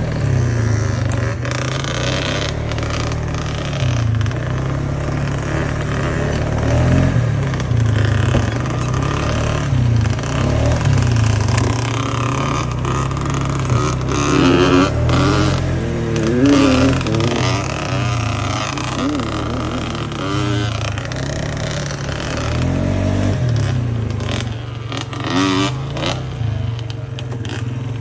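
Off-road vehicle engine running under load, its pitch rising and falling repeatedly as the throttle is opened and closed.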